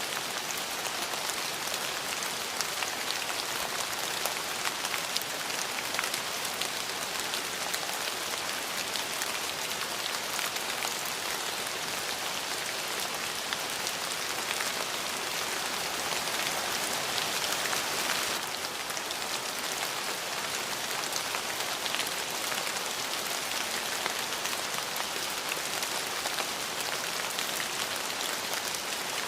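Steady rain falling, an even hiss dotted with many small drop ticks. It swells a little heavier for a few seconds, then eases back about eighteen seconds in.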